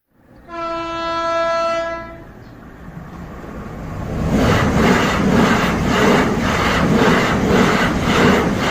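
A train horn sounds one steady note for about a second and a half. A few seconds later a train rumbles past with a rhythmic clickety-clack of wheels over rail joints, about two beats a second, growing louder.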